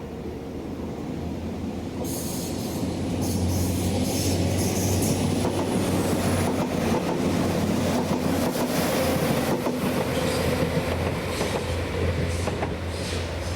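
A train running through the station, getting louder over the first few seconds. A steady low drone runs under high wheel squeals and rail clatter.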